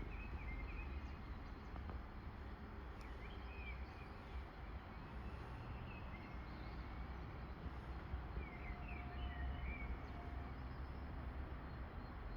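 Small birds chirping in short phrases a few times over a steady low background rumble, with no train passing yet.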